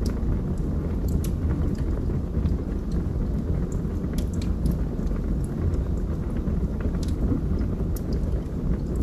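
Wood fire burning in a fireplace: a steady low rumble of the flames with scattered sharp crackles and pops from the burning logs, a few every second or two.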